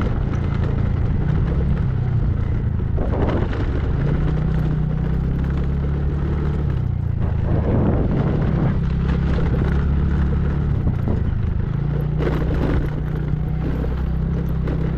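A vehicle's engine running steadily, heard from on board during a ride, with its pitch shifting a few times as the engine speed changes, under road and wind noise.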